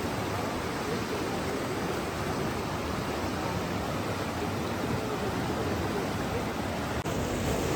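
Steady rushing water, an even hiss with no distinct drops or splashes. About seven seconds in it briefly dips, then turns louder and deeper.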